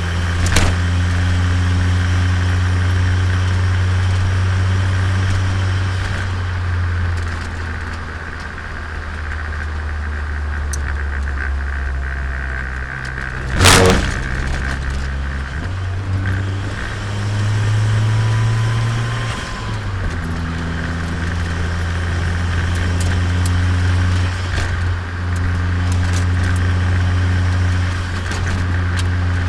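Turbocharged Nissan Micra engine running while driving, heard from on board, its note stepping up and down several times as the revs change. A sharp knock about fourteen seconds in is the loudest sound.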